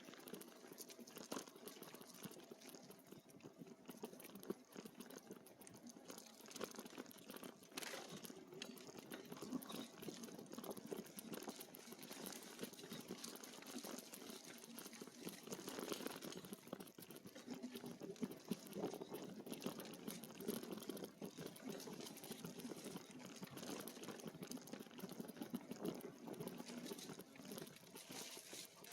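An e-bike's tyres rolling over an unpaved trail, giving a steady, uneven rustling noise.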